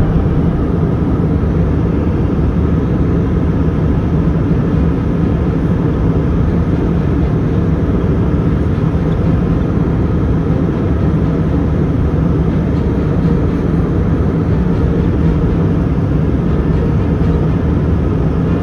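Strong wind buffeting the microphone: a loud, steady, low rumble with no let-up.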